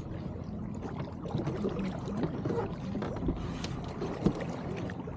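Water gurgling and sloshing along the hull of an Elliot 7.4 sailing keelboat under way, over a steady low rumble, with a single sharp knock about four seconds in.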